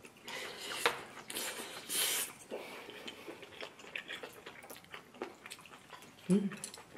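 Close-up chewing of a mouthful of pot-cooked rice with scorched crust (nurungji), in several noisy bursts, with scattered light clicks of chopsticks.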